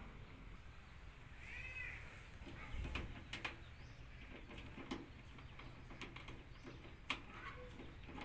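Faint, scattered clicks and taps, as of small parts being handled, with a short faint animal call about two seconds in.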